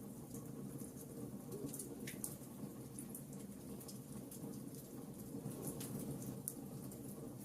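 Wood fire crackling: scattered sharp pops and snaps over a steady low rumble of the flames, with one louder pop about two seconds in.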